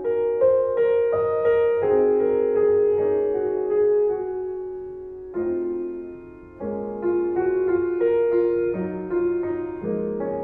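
Background piano music: slow chords with a melody over them, each note struck and left to fade, with new chords coming in every few seconds.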